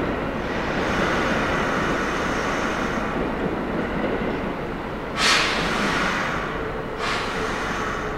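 Electric train running, a steady rumble with a faint whine. About five seconds in and again near the end come two sudden hissing bursts, each fading away.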